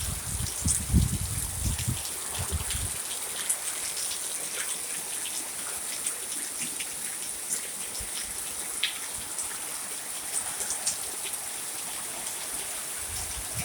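Rainstorm: rain falling steadily with a constant hiss and many scattered drops ticking close by. Low rumbling gusts of wind hit the microphone in the first three seconds and again near the end.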